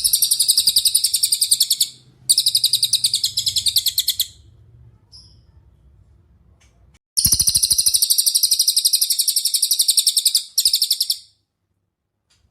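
Cililin songbird singing fast, high-pitched trills: four bursts of rapidly repeated notes, two in the first four seconds and two more from about seven seconds in.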